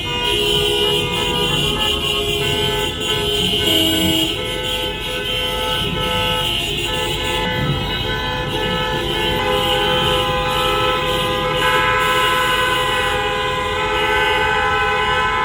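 Many car horns sounding at once in a traffic jam, a continuous chorus of overlapping steady horn tones held throughout, over the low rumble of traffic.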